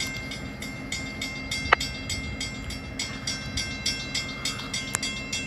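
Diesel locomotive of a slow CSX local train rumbling at low speed at a grade crossing, while the crossing bell dings rapidly and evenly, about three to four strokes a second. One sharper, louder metallic strike comes a little under two seconds in.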